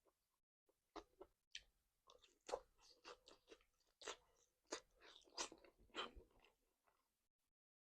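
A person biting and chewing crunchy food close to the microphone: quiet, irregular crisp crunches and chews that start about a second in and stop shortly before the end.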